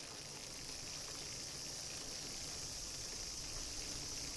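Faint, steady high-pitched insect chirring, growing slightly louder, over a low background hiss.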